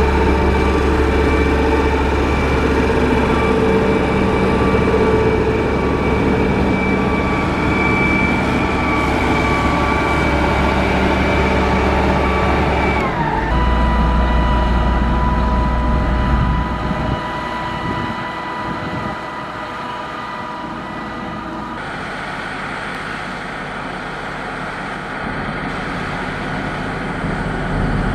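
Diesel engine of a heavy motor grader running under work, with a steady high whine over the engine drone. About halfway through the whine drops in pitch, and the engine sound shifts abruptly a couple of times, quieter for a stretch before picking up near the end.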